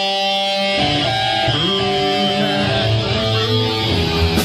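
Amplified electric guitar and bass: a held, ringing note for the first second, then loose single notes on guitar with low bass notes under them, the players tuning up between songs.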